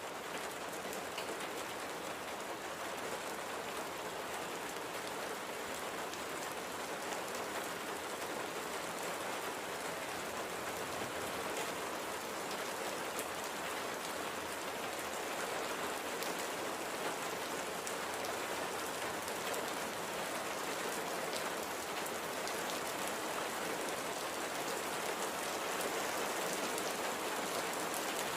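Steady light rain falling on a surface, an even hiss with fine scattered drop ticks, growing slightly louder toward the end.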